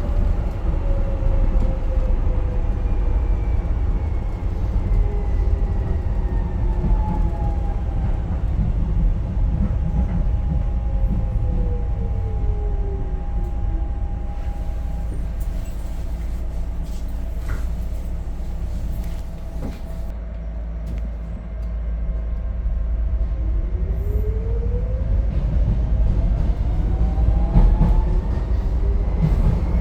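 Docklands Light Railway train running with a steady low rumble. Its motor whine falls in pitch through the first half as it slows, then rises again near the end as it picks up speed.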